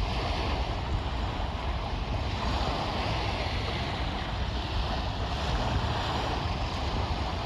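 Wind buffeting the microphone with a steady rush of water, as on a small sailboat under way.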